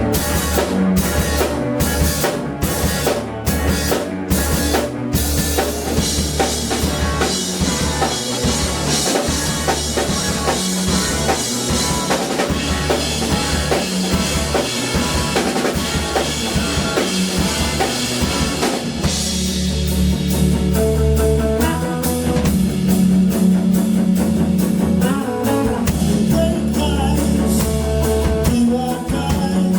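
Live band music: a drum kit and guitar playing, with a run of evenly spaced drum hits in the first few seconds and steadier held low notes in the second half.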